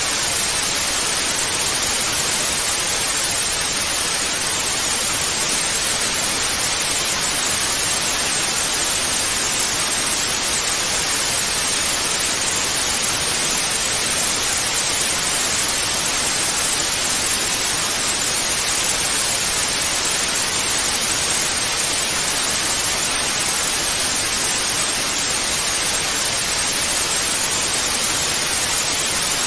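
TV static white noise: a steady, even hiss, strongest in the upper range, with no changes.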